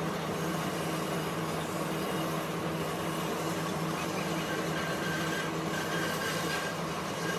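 Steady hum of a woodworking machine's electric motor running at constant speed.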